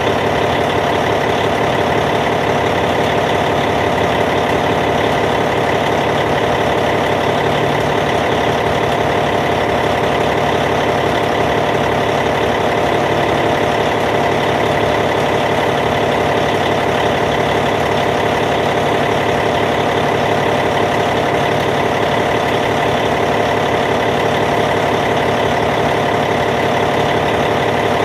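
Caterpillar C15 diesel engine of a D8T bulldozer idling steadily, its even low firing rhythm unchanging throughout.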